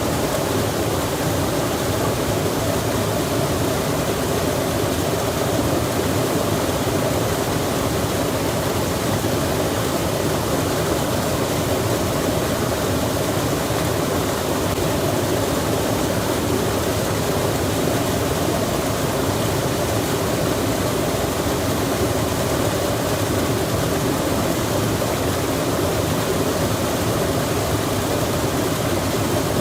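Rain falling by a rushing stream: one steady, unbroken wash of water noise that never changes.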